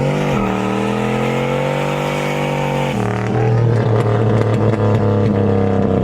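Car engine revved up and held at raised revs, then dropping back to a steady idle about three seconds in.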